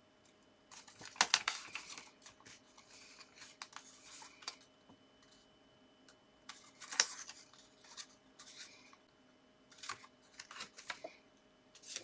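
Paper and card being handled: intermittent rustling with a few sharp taps and clicks, the loudest about a second in and near the middle.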